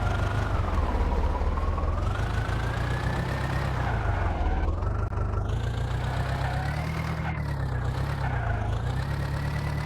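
Swaraj tractor's diesel engine running, its speed drifting slowly up and down, with a thin whine that rises and falls with the engine speed.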